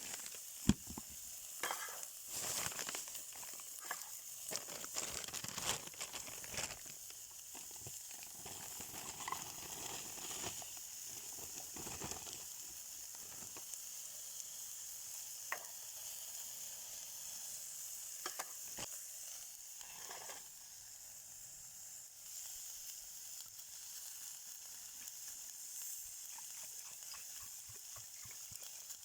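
Meat sizzling as it grills over a small camp stove, a steady hiss with scattered clicks and knocks of handling in the first half.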